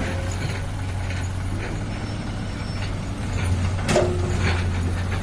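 Heavy diesel engines running steadily, from the excavator and dump trucks working together, with one sharp knock about four seconds in.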